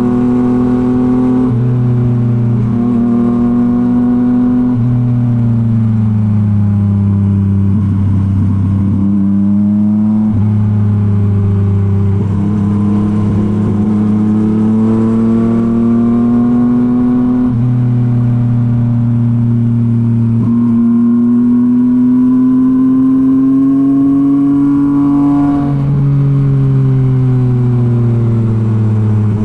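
2023 Yamaha MT-09's 890 cc inline-three engine running through a Revoc SP full exhaust system under way. The note glides slowly up and down with speed and jumps suddenly in pitch about six times as gears change.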